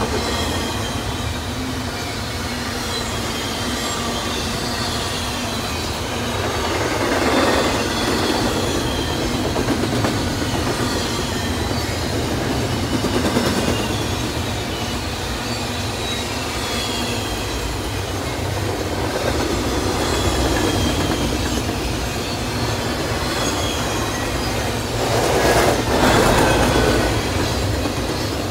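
Double-stack intermodal container well cars rolling past: a steady rumble and clatter of steel wheels on rail, with faint high-pitched wheel squeal. The noise swells louder a few times, most strongly about seven and twenty-five seconds in.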